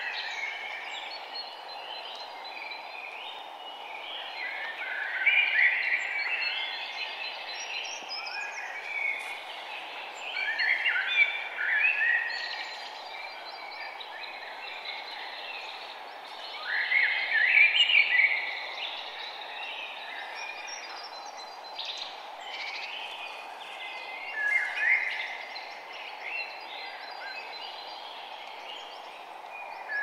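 Wild birds singing: clusters of chirps and short warbled phrases that come back every few seconds, loudest about 6, 11 and 17 seconds in, over a steady background hiss.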